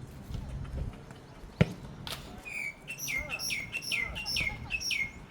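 A bird calling, a rapid series of short, high, downward-sliding notes about three a second through the second half. A single sharp knock stands out about a second and a half in.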